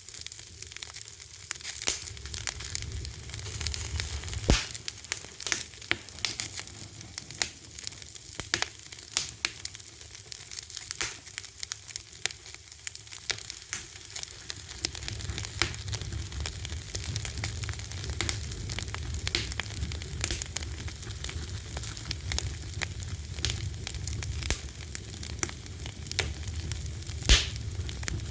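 Fire crackling: a steady hiss with a low rumble under it and many small pops and snaps, with two louder pops, one about four and a half seconds in and one near the end.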